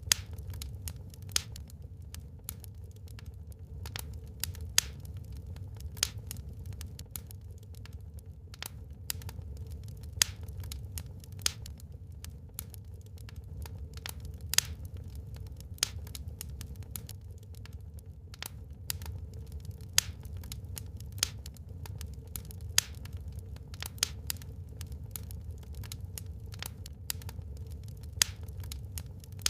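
Wood fire burning in a fireplace, crackling with irregular sharp pops and snaps from the burning logs, the loudest every second or two, over a steady low rumble.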